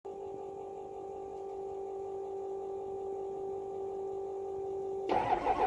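A steady faint hum for about five seconds, then near the end the starter begins cranking the 6.0 Powerstroke V8 turbodiesel in a rhythmic churn: a cold start after two weeks in below-zero temperatures.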